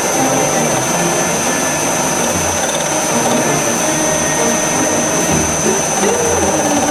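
Metal lathe running steadily as it turns a cast aluminium blank for a gear, with a thin high whine over the noise.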